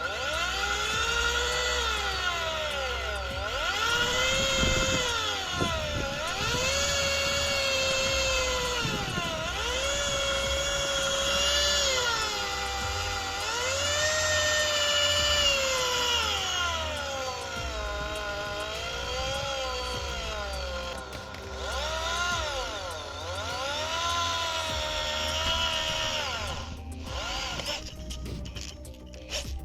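INGCO ID11008 1100 W impact drill's motor whining as the trigger is squeezed and released about eight times. Each run climbs in pitch, holds for a couple of seconds, then winds down.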